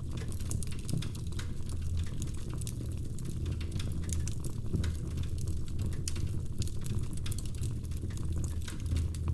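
Wood fire crackling in a fireplace: frequent small pops and snaps over a steady low rumble.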